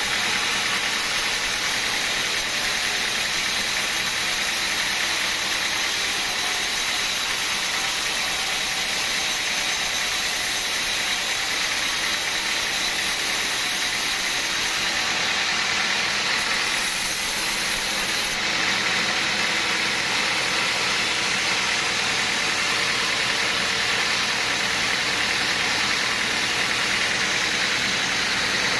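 Sawmill machinery running steadily, a continuous engine-like noise with no breaks.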